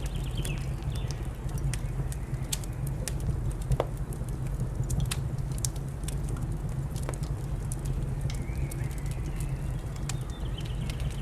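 Wood fire crackling with irregular sharp pops over a steady low rumble, with birds chirping faintly near the start and again over the last few seconds.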